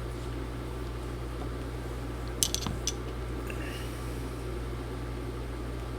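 Steady low hum of background room and bench noise, broken about two and a half seconds in by a quick run of three or four sharp clicks.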